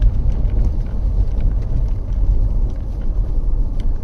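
Car driving at about 30 mph on an icy, snow-covered road with cables on its tyres, heard from inside the cabin. There is a steady low road rumble with faint, irregular clicks over it.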